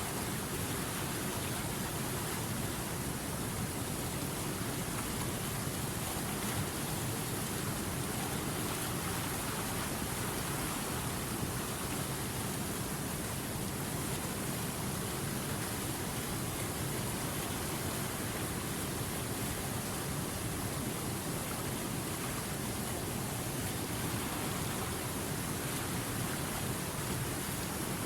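River water rushing steadily over rapids, a constant even hiss and rumble with no individual splashes standing out.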